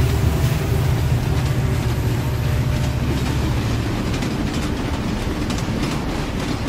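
A train running along the rails: a steady rumble with faint clacking that slowly fades as the train moves away.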